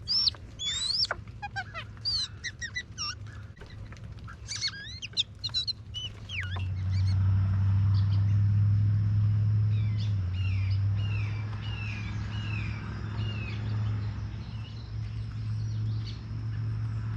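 Small wild birds chirping and calling, a busy scatter of quick rising and falling notes in the first six seconds, then one bird repeating a short run of downslurred notes. About six seconds in, a low steady motor hum comes in and becomes the loudest sound.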